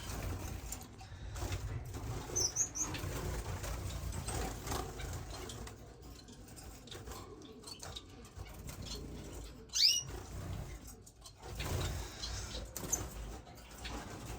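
Caged finches calling, with a few short high chirps and one sharper call about ten seconds in, over wings fluttering and a low steady background rumble.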